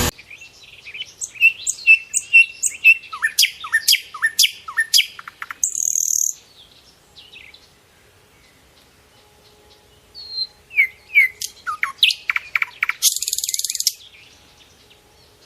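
Birds chirping and calling: quick runs of chirps and short falling whistled notes. There are two brief hissy bursts, about six seconds in and again around thirteen seconds, and a quieter lull between about seven and ten seconds.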